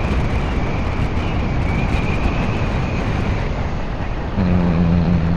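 Wind rushing over the microphone and road noise from a 96-volt electric motorcycle under way, with a thin, steady high whine throughout. A low steady hum joins about four seconds in.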